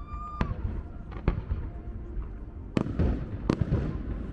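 Aerial fireworks going off: four sharp bangs at uneven intervals, with a spell of crackling after the third.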